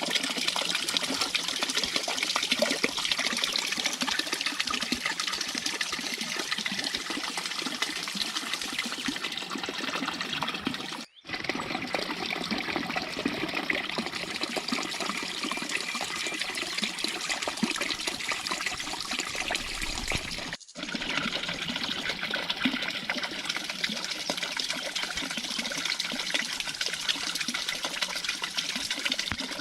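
Water running and splashing steadily, broken by two abrupt cuts about a third and two thirds of the way through.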